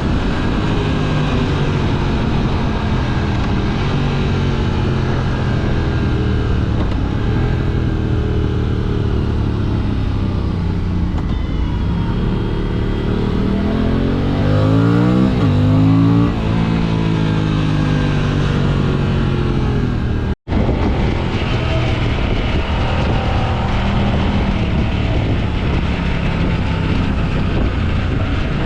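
Motorcycle engine running while riding, its revs rising and falling through the gears, loudest in a climb of revs about fourteen to sixteen seconds in. The sound cuts out for an instant about twenty seconds in.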